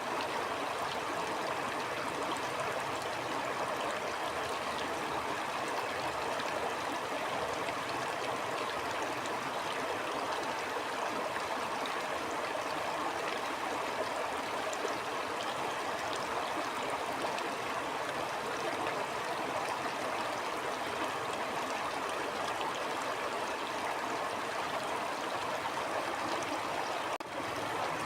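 A stream flowing steadily, a constant rush of water with a brief dip in level about a second before the end.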